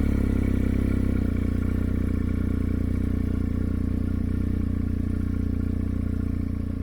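BMW R1250GS Adventure's boxer-twin engine idling steadily, just after being started.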